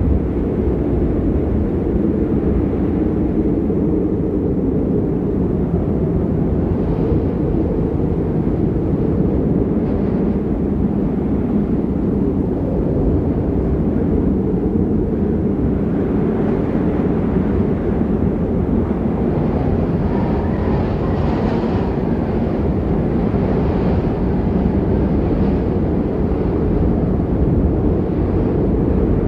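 Strong wind buffeting the microphone: a loud, steady low rumble, a little brighter for a few seconds past the middle.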